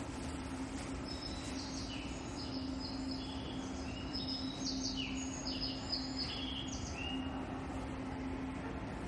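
A run of short, high, bird-like chirps at several stepped pitches, starting about a second and a half in and stopping near the end, over a steady low hum and background noise.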